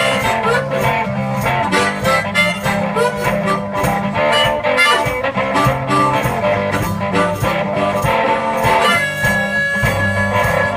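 Blues music with a harmonica playing bending notes over guitar, a steady beat and bass. Near the end the harmonica holds one long note.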